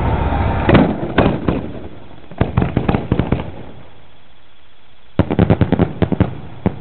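Aerial fireworks going off in a finale barrage: three quick salvos of sharp bangs, the first about a second in, the second around the middle, and the densest near the end.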